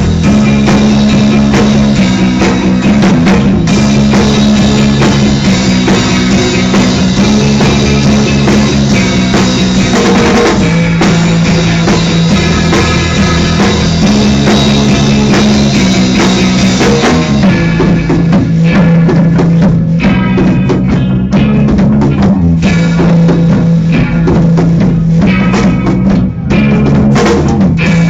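Rock band playing loud: full drum kit with bass drum, and electric guitar and bass holding low notes that shift pitch. About two-thirds of the way in, the drums come forward as separate hits.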